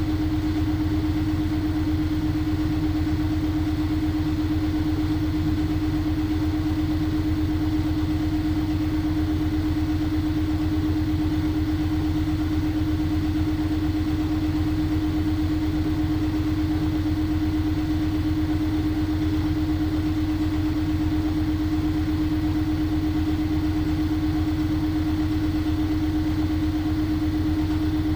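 LG front-loading washing machine spinning at high speed: a steady motor hum with a fast, even low thrum from the drum, unchanging throughout.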